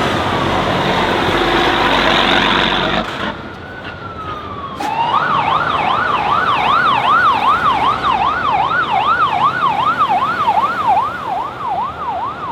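Loud vehicle engine noise for about three seconds, cut off sharply. Then, after a brief falling tone, a siren wails rapidly up and down, about two sweeps a second.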